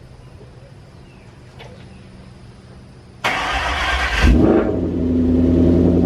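Freshly rebuilt Ford Coyote 5.0-litre V8 starting for the first time. About three seconds in, the starter cranks for about a second, then the engine catches with a brief rev and settles into a steady run.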